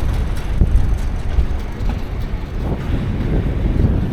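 Wind buffeting the microphone while cycling, a low uneven rumble with irregular thumps, mixed with city traffic noise.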